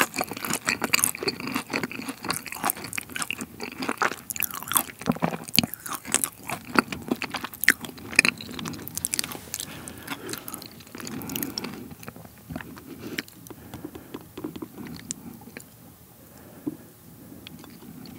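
Close-miked chewing of a crunchy dessert: dense, crackling crunches that thin out and grow quieter after about twelve seconds.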